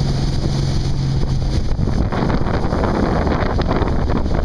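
Jet boat running through waves, with heavy wind buffeting the microphone. A steady low engine drone drops out about a second and a half in, leaving rushing water and splashing spray.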